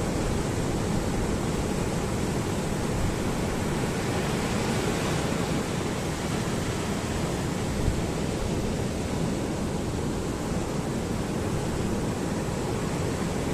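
Steady wash of ocean surf on a beach, an even rushing noise with no distinct waves standing out.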